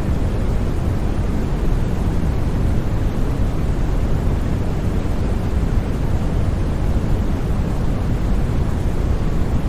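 Steady, unbroken synthetic white noise for sleep, weighted toward the low end: an even, deep rush with no tones, pulses or changes.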